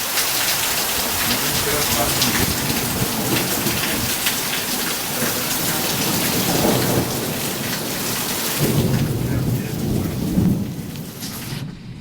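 Heavy summer rain pouring steadily, with low rumbles of thunder a little past the middle and again toward the end. The sound falls away sharply just before the end.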